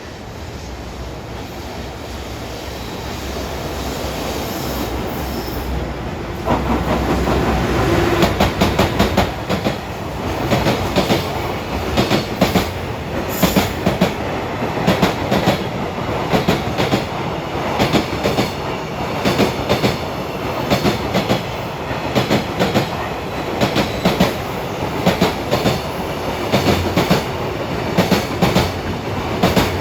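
Freight train of a JR Freight EF210 electric locomotive and Koki container flatcars, growing louder as it approaches over the first six seconds, then passing close by. As it passes, the wheels clack over the rail joints in a steady, repeating rhythm, wagon after wagon.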